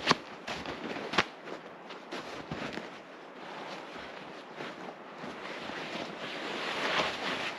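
Two sharp knocks or snaps, one at the start and one about a second in, over continuous rustling and handling noise outdoors.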